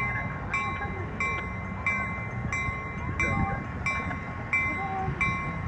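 Railroad grade-crossing warning bell ringing in an even rhythm, about one and a half strikes a second, sounding as a train approaches the crossing.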